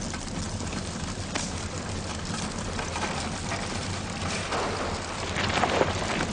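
Dense crackling and hissing of a lava flow burning through a forest, with a steady low hum underneath; the crackle grows louder about five and a half seconds in.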